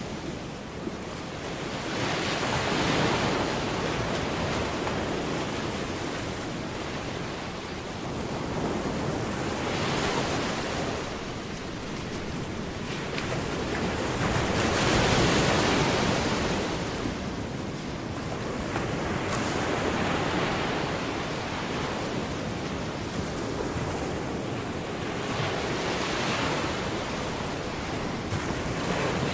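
Ocean surf: waves washing in and out, swelling and fading about every five to seven seconds.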